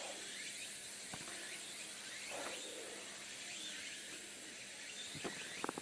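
Faint outdoor ambience: a steady high hiss with faint insect sounds and a few sharp clicks, the last ones near the end.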